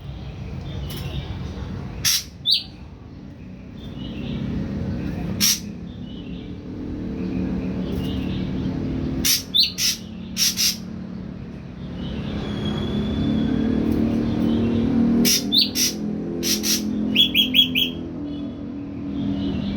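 Ashy drongo calling in short, sharp notes every few seconds, with one held whistle about two-thirds of the way through and a quick run of notes near the end: a young wild-caught bird just beginning to call. A low steady rumble runs underneath.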